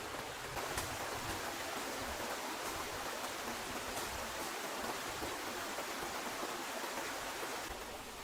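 Steady rushing water noise with a few faint ticks, changing character near the end.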